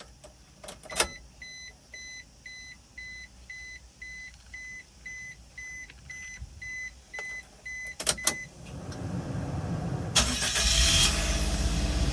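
The cab's warning chime beeps steadily about twice a second, then stops after a couple of clicks about eight seconds in. Just after ten seconds the starter cranks and the Nissan NT100 Clipper's 660 cc three-cylinder engine fires, settling into a steady idle.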